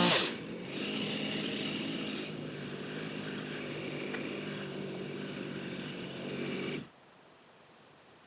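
Two-stroke chainsaw dropping from full throttle to a steady idle, running for several seconds, then shut off abruptly about seven seconds in.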